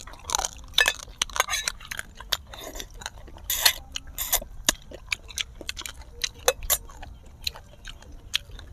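Close-miked chewing and mouth sounds of people eating: irregular wet smacks and clicks, with an occasional light clink of a spoon against a metal pan.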